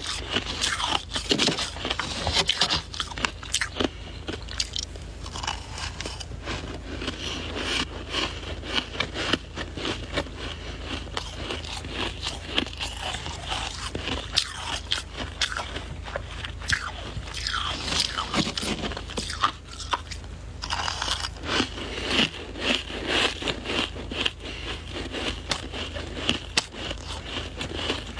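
Person biting and chewing soft white ice, a dense, irregular run of crunches.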